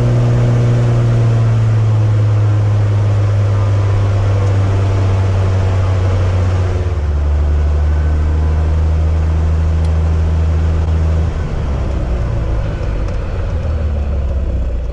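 Cessna 185 Skywagon amphibian's piston engine and propeller running under power as the plane tries to turn while stuck in long wet grass. The steady drone drops to a lower pitch about seven seconds in as the power comes back.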